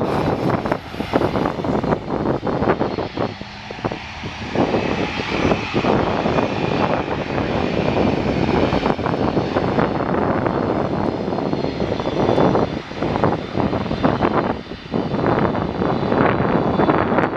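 Airliner's jet engines running loud and continuous, a rushing roar with a thin high whine above it that falls slightly in pitch in the first half.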